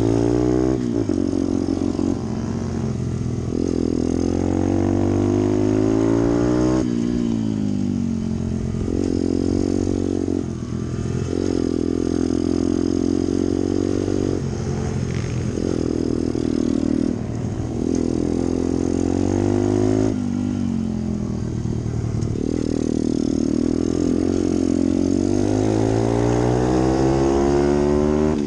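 Pit bike engine at race pace, its pitch climbing hard under throttle and dropping again every one to three seconds as it shifts gears and backs off into corners.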